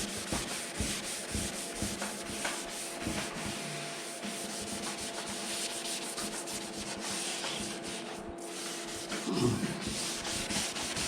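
Abrasive sanding sponge scrubbed back and forth over the clear coat of a painted Lambretta GP scooter side panel, matting the shiny clear down so the next coat will stick. Rapid rubbing strokes, with a brief pause about eight seconds in.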